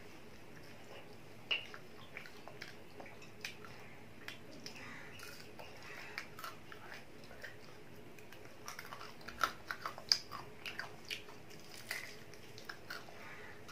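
A child biting and chewing fried chicken: faint, scattered crunches and mouth clicks, most bunched together about nine to ten seconds in.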